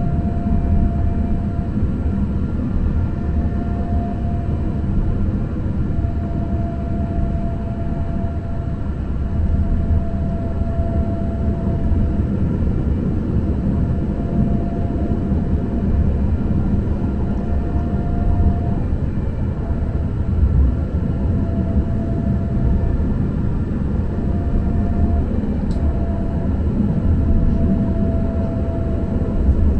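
Muni Metro light-rail train running, a steady low rumble with a faint high tone that wavers and breaks off every few seconds.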